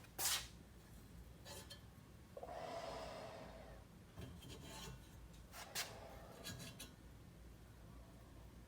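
Handling noises: a sharp knock, then a rubbing scrape lasting about a second and a half, and a few light clicks.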